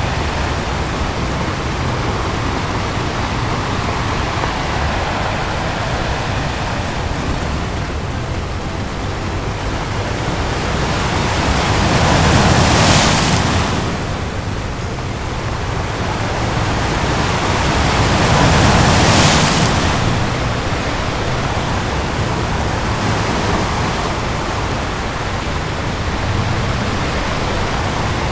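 Ocean surf: a steady wash of breaking waves, with two bigger waves swelling up and crashing, one about halfway through and another about six seconds later.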